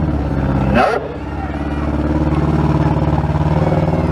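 Engines of gutted compact demolition-derby cars running loud and revving, climbing slowly in pitch, with a brief sharp rising sound about a second in.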